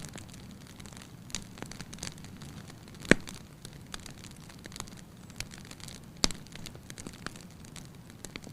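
Wood fire crackling in a fireplace: irregular small pops and snaps over a low steady rumble, with two louder pops about three and six seconds in.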